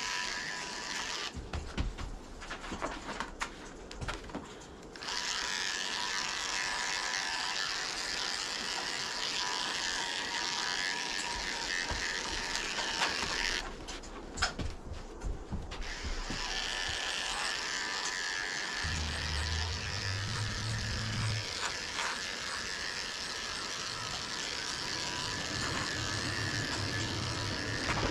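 Electric dog grooming clippers buzzing as the blade runs through a thick, nearly dry coat. The buzz drops away twice for a few seconds, once near the start and once about halfway.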